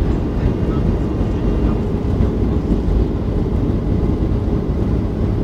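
Steady low rumble of a Boeing 737-800 in flight, engine and airflow noise, heard inside the cabin.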